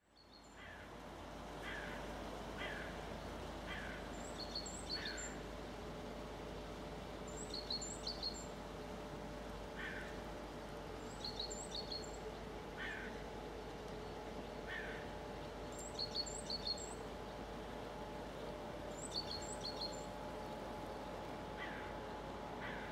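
Birds calling over a steady faint hum, fading in at the start. Short high chirps come in quick pairs every few seconds, with lower falling calls between them.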